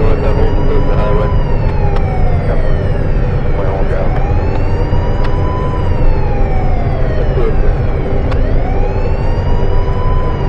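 Emergency vehicle siren wailing, rising and falling slowly about every four seconds, over a heavy low rumble of vehicle and road noise.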